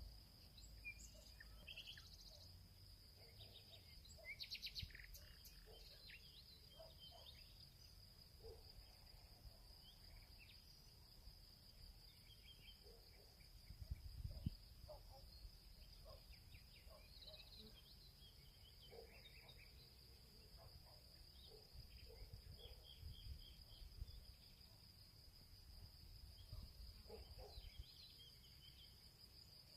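Faint field ambience: a steady high-pitched insect trill, typical of crickets, under scattered short bird chirps. A brief low rumble about halfway through.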